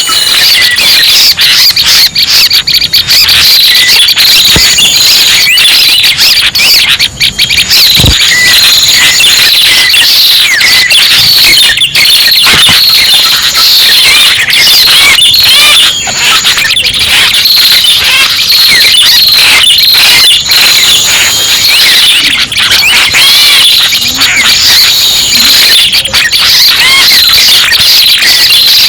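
Bird-trapping lure recording of prenjak pala merah calls: a dense, unbroken stream of rapid high chirps and trills, played very loud over a hissy background.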